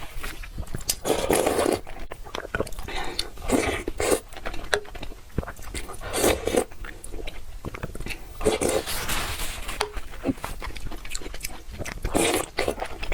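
Close-miked eating of spicy noodles: biting and chewing with wet mouth clicks, and a louder burst every two to three seconds.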